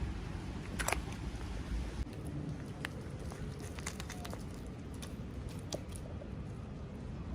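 Light clicks and taps of small plastic toys and packaging being handled, one sharper click about a second in and a scatter of lighter ones after, over a steady low background hum.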